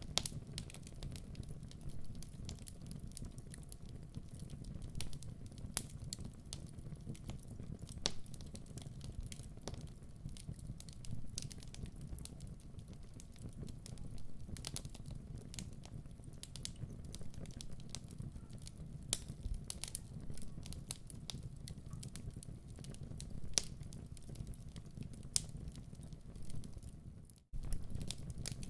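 Wood fire crackling in a fireplace: a steady low rumble of burning with frequent, irregular sharp pops and snaps. The sound cuts out for a moment near the end.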